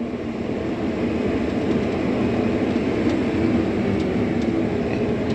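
Combine harvester running steadily during corn harvest, a constant machine noise with a few held hums.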